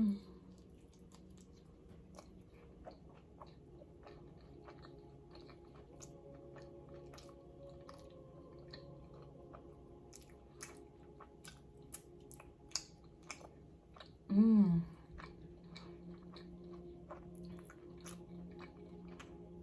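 Close-up chewing of a soft-shell taco, with many small wet mouth clicks and smacks. A steady faint humming background from a child's sleep soundscape runs underneath, and there is one brief loud vocal sound with falling pitch about two-thirds of the way through.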